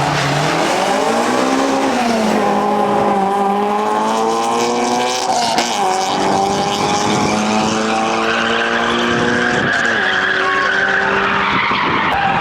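Performance car engine revved hard and held at high revs, dipping briefly a few times, with tyres squealing in the later part as the car slides.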